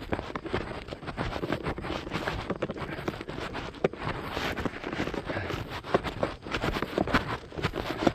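A runner's footsteps: a quick, continuous run of short footfalls.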